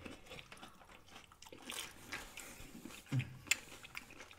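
People chewing taco and nacho food with wet lip smacks and scattered small mouth clicks, a brief low murmur a little after three seconds in and a sharper click just after it.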